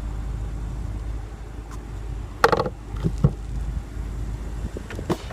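Car engine idling with a steady low rumble, with a few short knocks and clicks about halfway through and again near the end.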